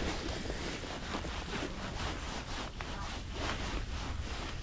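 Steady wind noise buffeting the microphone, with scattered short rustling and handling sounds.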